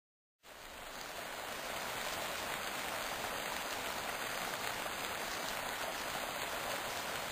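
Steady rain falling, a dense even hiss that fades in during the first second or two.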